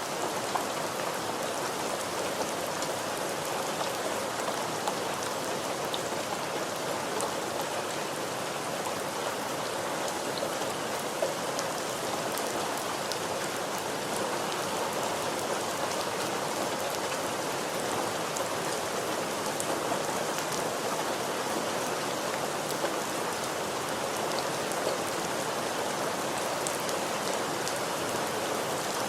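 Steady rain falling, a dense even hiss with scattered sharper drop ticks on a hard surface.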